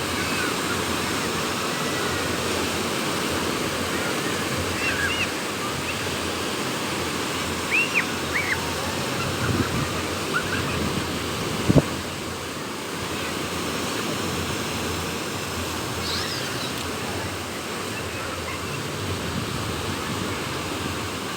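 Sea waves breaking on the shore under a strong wind, a continuous rushing. A few short high chirping calls come a quarter to halfway through, and a single sharp knock just past the middle.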